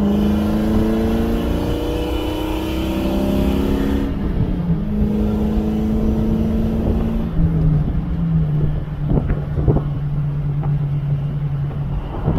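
2001 Ford Mustang GT's 4.6-litre V8 running under light load on the road, heard from inside the cabin with road and wind noise. The engine note holds a steady pitch, then steps lower about four seconds in and again about seven and a half seconds in.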